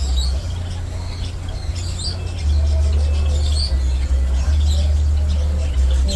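Birds chirping and calling with short, scattered high chirps, over a loud steady low rumble.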